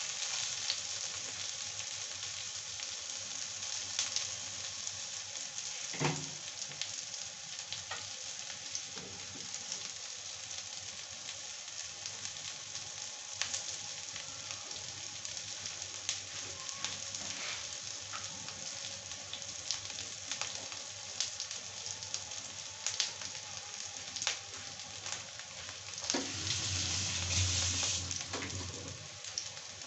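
Pointed gourd (parwal) pieces frying in hot oil in a wok: a steady sizzling hiss with scattered small crackles and pops. It grows louder for a few seconds near the end.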